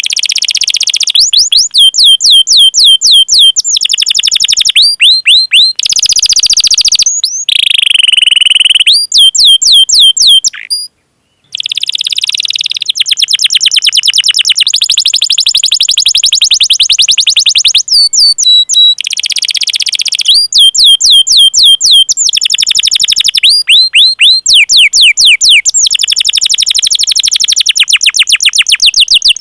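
Domestic canary singing long, rapid rolled trills of repeated sweeping chirps, in runs broken by short pauses, with a brief silence about eleven seconds in.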